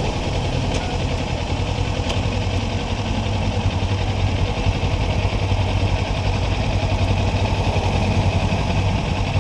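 Kawasaki Ninja sport motorcycle's parallel-twin engine running at a steady pitch.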